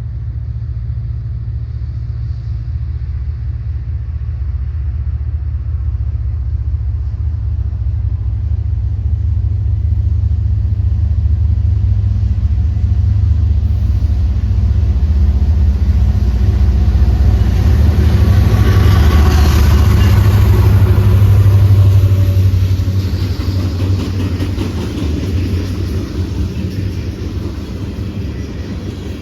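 Railway locomotive rumbling at low pitch, growing louder to a peak about two-thirds of the way through, then easing off as it passes.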